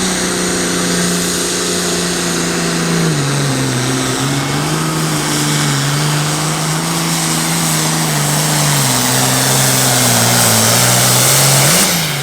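Super farm class diesel pulling tractor running flat out under load on a sled pull, a loud, steady engine note over heavy hiss. Its pitch drops about three seconds in and wavers as the sled bears down, then jumps up briefly near the end.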